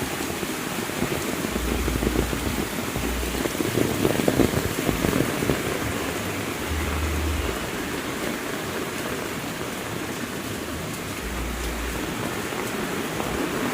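Heavy rain falling steadily in a dense hiss of drops, heaviest about four to five seconds in, with a few short low rumbles underneath.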